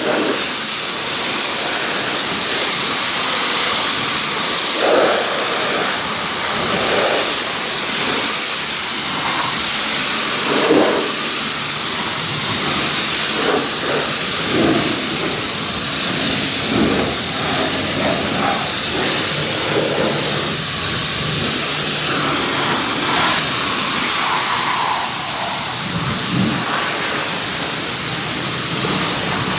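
Pressure washer spraying, a steady loud hiss of a water jet whose tone keeps shifting as the spray moves over different surfaces.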